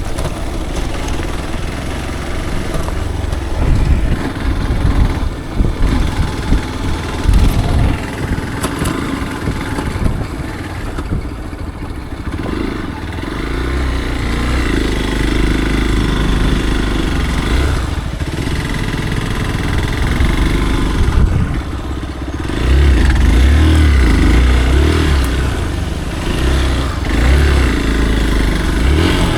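Motorcycle engine running while the bike is ridden, its revs rising and falling, louder for a few seconds past the middle.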